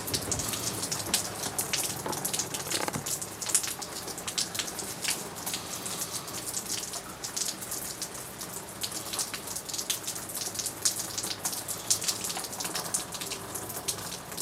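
Rain falling, with many separate drops striking close by as a dense, irregular run of sharp ticks over a steady hiss.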